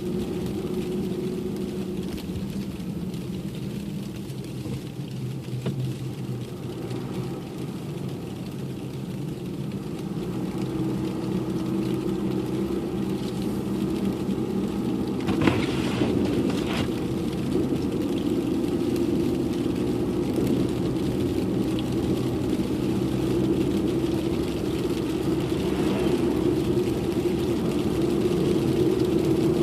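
Car driving along: steady engine and road rumble that slowly grows louder, with two brief knocks about halfway through.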